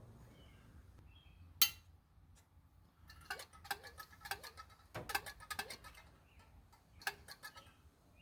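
One sharp click, then a run of quick light clicks and taps: small carburetor parts, the float and its clip, being handled and fitted.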